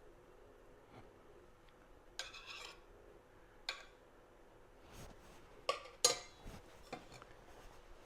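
Dishes and utensils clinking and clattering: a handful of separate knocks and clinks, the loudest about six seconds in.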